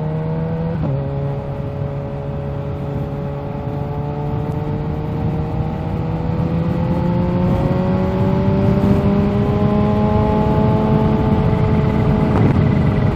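Kawasaki Z H2's supercharged inline-four engine under way. Its pitch drops at a gear change about a second in, then climbs slowly as the bike accelerates and eases off slightly near the end, over a steady rush of wind.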